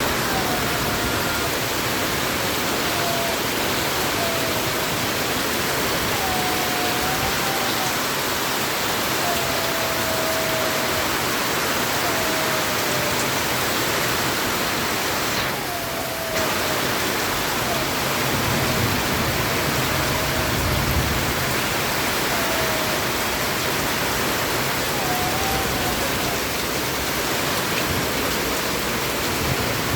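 Steady heavy rainfall, an even hiss with a brief dip about halfway through. A short whistle-like tone repeats every second or two over the rain.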